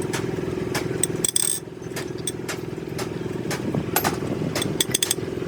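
A motor running steadily, with scattered metallic clinks and taps over it.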